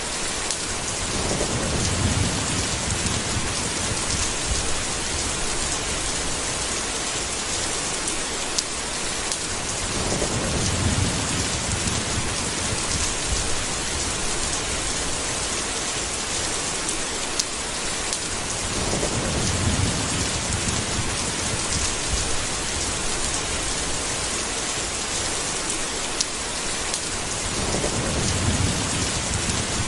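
A steady rainstorm with four low rolls of thunder, coming about every eight or nine seconds.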